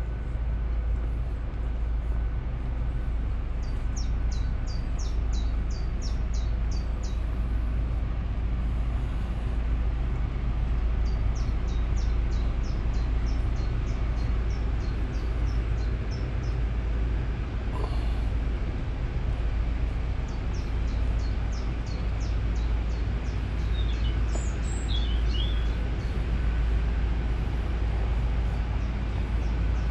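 A songbird singing three phrases, each a quick run of about a dozen short high notes lasting a few seconds, with a few chirps after the last. Under it runs a steady low rumble, and there is one sharp click about midway.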